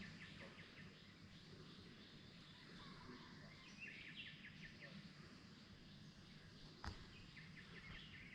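Faint outdoor ambience with small birds chirping in quick repeated series, and a single sharp click about seven seconds in.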